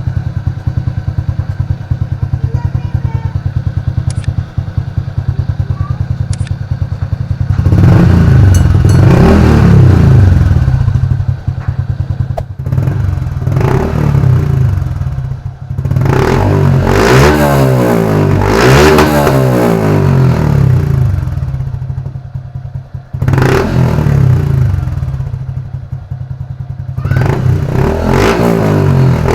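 Single-cylinder RS125 FI motorcycle engine breathing through a Podium aftermarket power pipe with silencer: idling steadily at first, then revved up and let fall back several times in repeated bursts from about eight seconds in.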